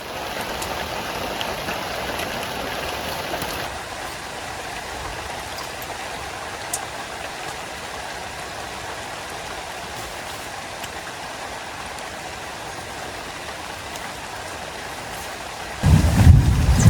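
Steady rain falling, an even hiss. About a second before the end a loud low rumble breaks in over it.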